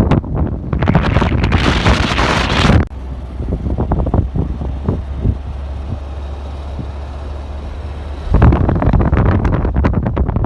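Wind buffeting the microphone in loud, gusty rumbles. It drops suddenly to a quieter, steadier low hum about three seconds in and jumps back to loud buffeting near the end, as if clips were cut together.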